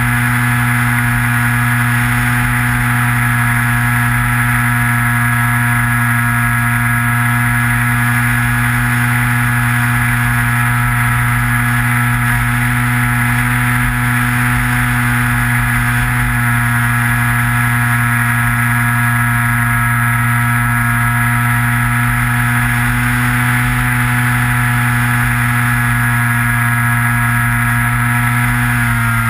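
Electric motor and propeller of a Skywalker RC plane running at a steady throttle in flight, a constant multi-toned drone picked up by the onboard camera, with low wind rumble underneath.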